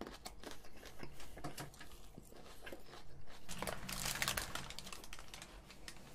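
Close-miked chewing of crisp salad greens: a steady run of small crunchy clicks. About three and a half seconds in comes a louder spell of crunching as a burger is bitten into.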